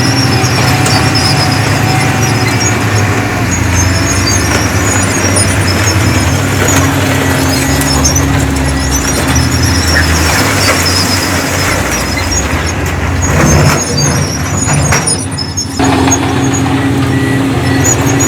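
Diesel engine of heavy earthmoving machinery running steadily under load, with repeated high-pitched squeaking over it. The engine note dips and changes for a couple of seconds near the end.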